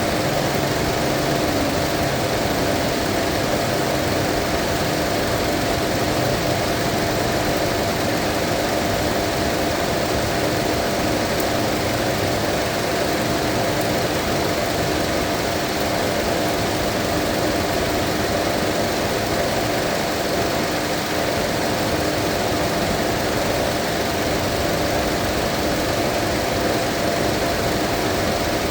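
Mazda 2.5-litre engine idling steadily with its cooling system being bled of air after a coolant refill.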